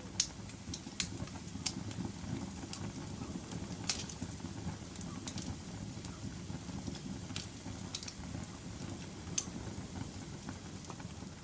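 Wood fire burning in a fireplace: a steady low rumble of the flames with sharp crackles and pops every second or two.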